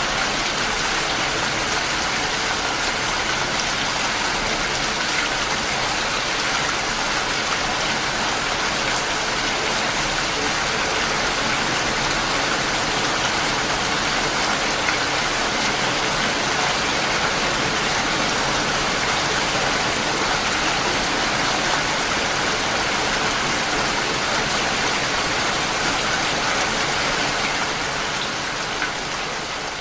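Steady rain, an even hiss with no distinct drops standing out, fading out near the end.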